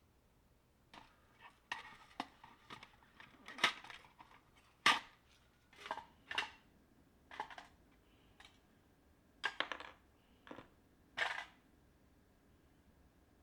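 Irregular light clicks, clinks and brief scrapes of household objects being handled and set down, a dozen or so over several seconds, with two louder knocks near the middle.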